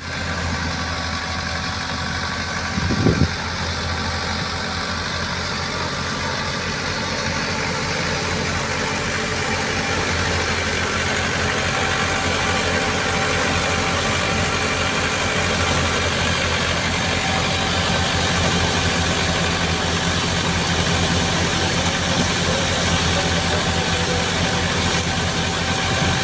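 Tractor engine running steadily while powering a wheat thresher, with a brief loud knock about three seconds in.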